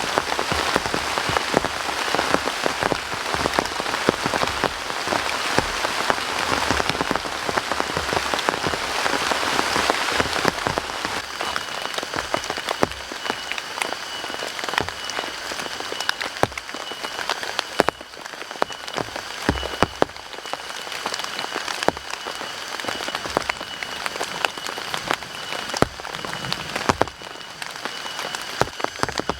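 Heavy rain falling, with many sharp drop impacts close by. It eases somewhat about a third of the way in, and a thin steady high tone comes in at about the same time.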